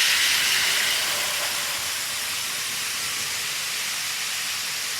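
Model train rolling along the track, a steady hissing run of wheels and motor that eases a little after the first second or so as the train slows into the station.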